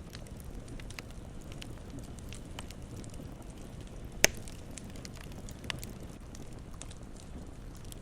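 Campfire crackling: scattered small crackles over a steady low rumble, with one loud, sharp pop about four seconds in and a smaller pop shortly after.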